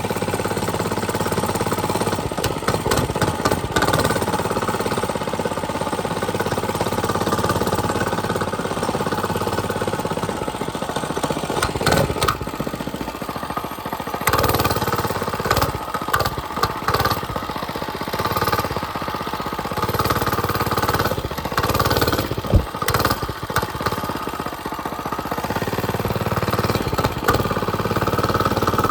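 Mini bike's small engine running steadily while being ridden, with short bursts of noise scattered through the middle stretch.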